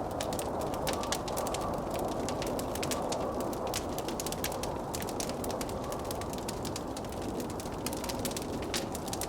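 Wood fire in a fireplace crackling with frequent small, irregular pops, over a steady rushing blizzard wind.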